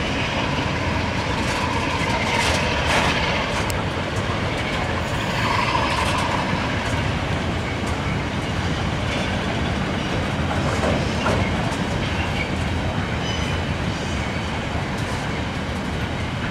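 Freight wagons of a gypsum train rolling past at speed: a steady rumble and clatter of steel wheels on the rails.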